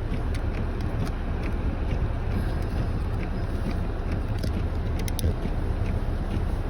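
Steady low rumble of a car's engine and tyres heard from inside the cabin while driving, with a few faint clicks about five seconds in.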